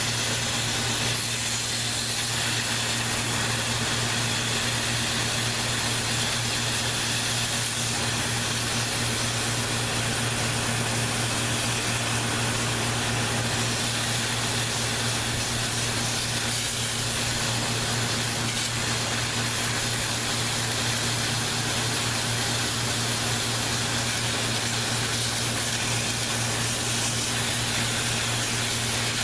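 Steady hiss of a water spray washing a dirty evaporator coil, over a constant motor hum. It runs without a break.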